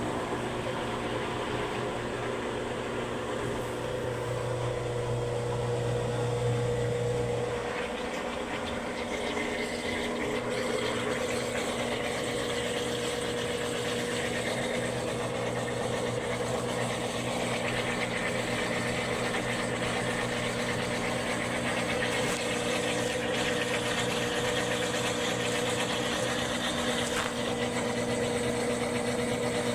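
Admiral ATW4475XQ top-load washing machine running with a steady grinding noise over a hum. About eight seconds in, the deepest part of the hum drops out for a moment, then comes back weaker.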